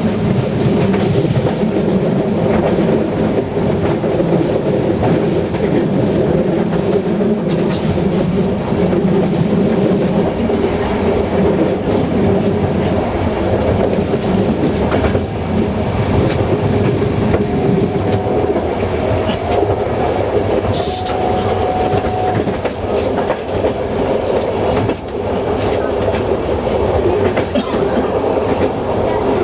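Passenger train running at speed, heard from inside a cab: a steady rumble with the clickety-clack of wheels over rail joints. A thin steady squeal from the wheels sounds twice past the middle.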